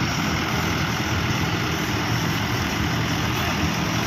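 Tractor diesel engines running steadily at a low, even pitch, with no change in speed.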